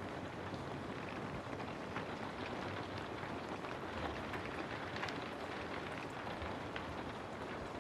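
Steady rain falling, a continuous hiss with many separate drops tapping on a surface.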